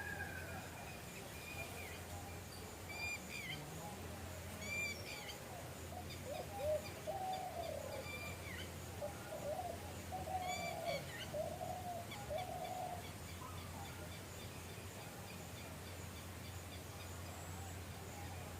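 Bird calls: a few short, high chirps and a run of lower warbling notes in the middle, over a steady low hum.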